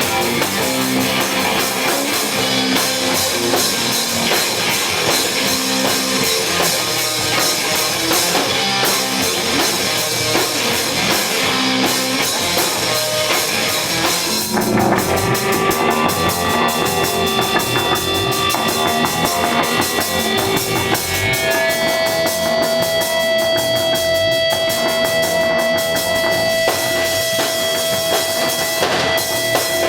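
Live rock band playing an instrumental passage: a drum kit with bass drum and a distorted electric guitar. About two-thirds of the way through, a long held high tone comes in and rings over the drums.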